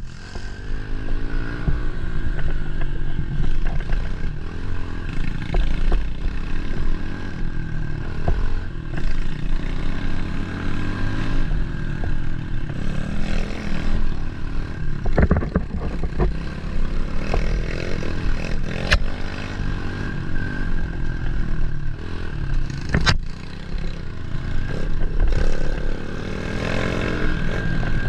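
110cc single-cylinder four-stroke pit bike engine revving up and falling back over and over as the bike is ridden hard on a trail, with the bike clattering and a few sharp knocks over rough ground.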